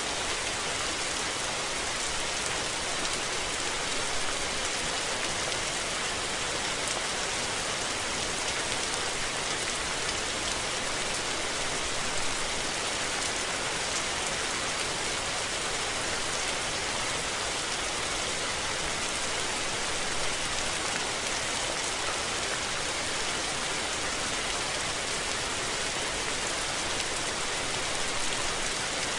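Steady rain falling: a dense, even hiss with no thunder.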